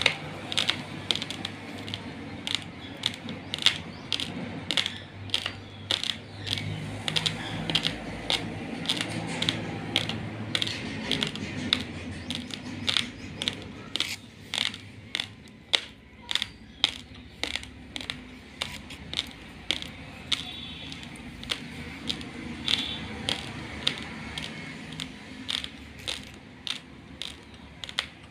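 Raw basmati rice being chewed, the dry grains cracking between the teeth in a run of sharp crunches, about two a second.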